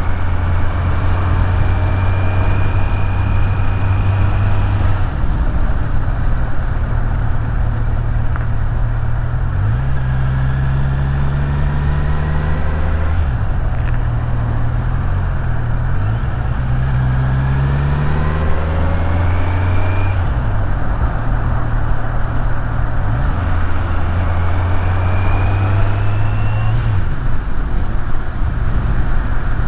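Kawasaki Z900's inline-four engine under way, its pitch climbing as it pulls through the gears and dropping sharply several times at gear changes, over a steady rush of wind and road noise.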